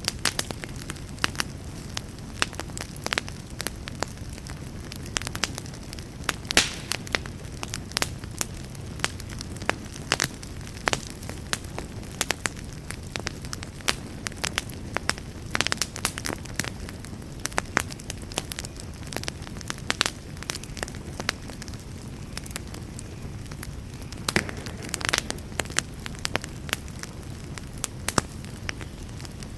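Wood campfire crackling, with irregular sharp pops and snaps throughout over a steady low rumble.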